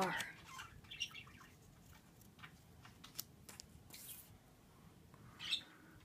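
Pet birds chirping faintly indoors, a few brief high chirps about a second in and again near the end, with faint clicks and rustles in between.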